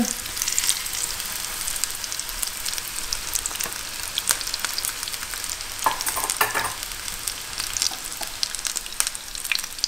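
Batter-coated zucchini slices sizzling and crackling as they shallow-fry in hot oil and clarified butter in a frying pan, on medium heat. A couple of louder clicks come about six seconds in, from a fork touching the pan.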